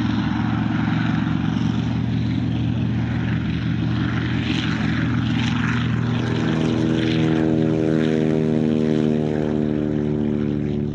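Propeller-driven aerobatic planes flying a formation pass, their piston engines droning steadily. From about six seconds in, a second engine note comes up and slides gently down in pitch as the planes go by.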